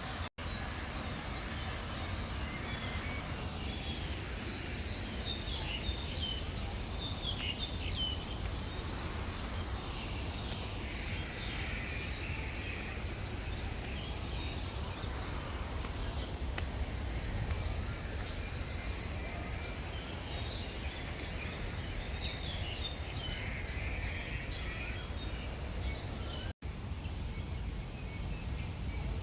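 Scattered bird chirps over a steady low rumble of outdoor background noise.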